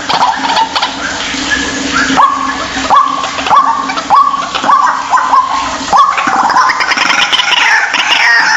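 White-breasted waterhen calling: a harsh note repeated about twice a second, then from about seven seconds in several birds' overlapping, falling calls building into a chorus.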